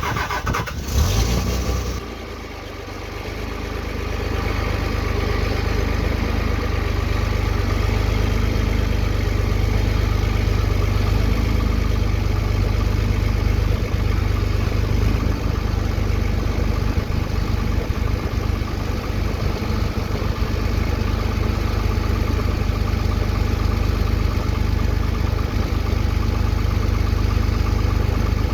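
A vehicle engine just after a cold start: it runs unevenly with a brief rise for the first couple of seconds, dips, then picks up and settles into a steady idle.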